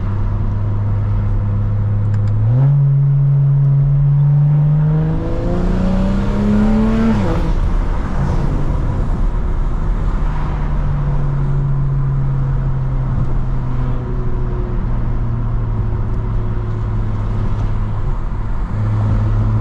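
Straight-piped N55 turbocharged inline-six of a BMW 335i (E92) under way. The revs rise in two steps a few seconds in and climb until about seven seconds, then fall away. It settles into a steady cruise.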